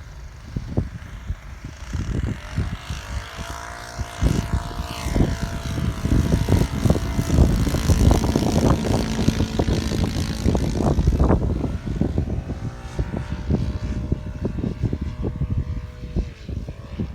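OS GF40 four-stroke petrol engine of a radio-controlled Spitfire model in flight, its pitch bending up and down as the plane passes and turns, over heavy wind buffeting on the microphone.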